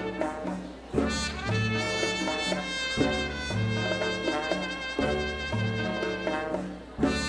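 Live Latin dance band playing a rumba: trumpets and brass carry the melody over a bass line that repeats in an even figure about every two seconds.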